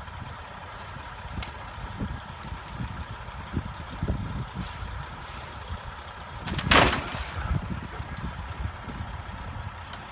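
Heavy truck running with a steady low rumble, and a sharp burst of air hiss about seven seconds in, with fainter hisses shortly before.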